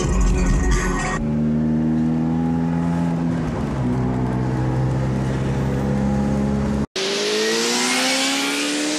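Music for about the first second, then a car's engine accelerating hard through the gears: its note rises, drops once at a gear change, and rises again. After a brief cut near the end, the engine is heard from outside the car, still rising, under a rush of wind.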